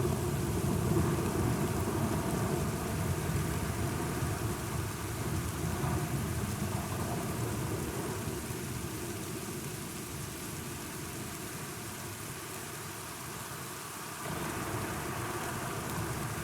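Steady rain with a low rolling thunder rumble that slowly fades away over the first half. About fourteen seconds in, the rain abruptly grows a little louder.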